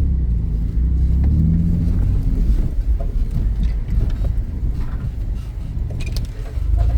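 Truck engine running with a low rumble, heard from inside the cab as it drives through the mud course. The engine note briefly rises about a second and a half in.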